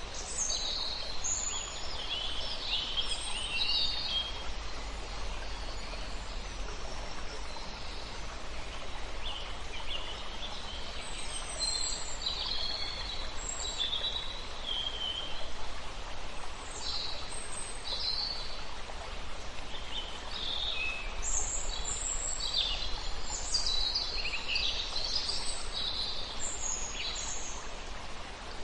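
Several songbirds chirping and warbling in short phrases over the steady rush of a river, the birds busiest at the start and again in the second half.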